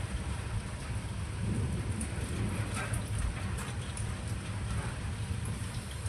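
Steady rain falling, with a low rumble of thunder that swells about a second and a half in.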